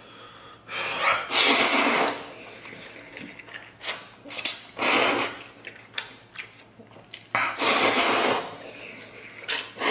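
Noodles being slurped, several long, loud slurps, with short wet chewing clicks between them.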